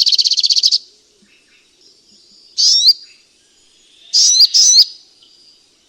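Sunbird calling: a fast, high-pitched chattering trill that ends under a second in, then a single sharp rising chirp, and a pair of chirps about a second and a half later.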